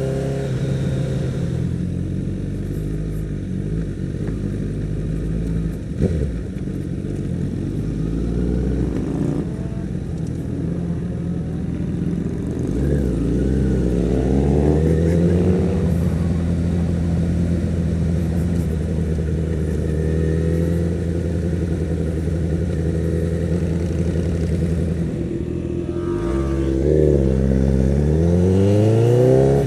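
Honda CBR1000RR Fireblade's inline-four engine running, heard from the rider's seat. It runs steadily at low road speed and revs up twice as the bike accelerates, once about halfway through and again near the end.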